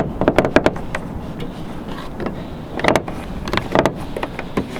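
A car bonnet's safety catch and latch being worked by hand: a series of short metallic clicks and knocks in small clusters as the catch is pushed and tried, without releasing.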